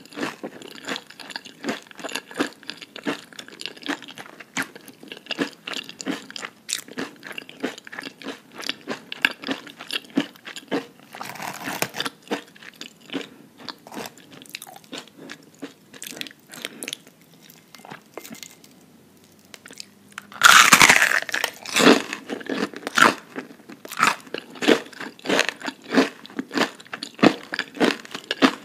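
Person chewing crunchy breaded onion rings, a steady run of irregular crisp crunches. A short lull comes about two-thirds of the way through, then a loud burst of crunching as a fresh piece is bitten.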